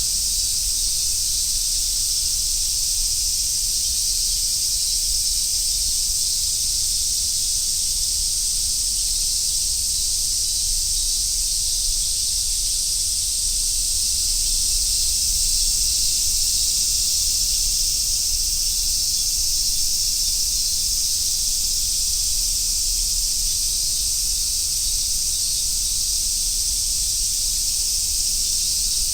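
A chorus of summer cicadas making a steady, dense, high buzzing drone that holds without a break.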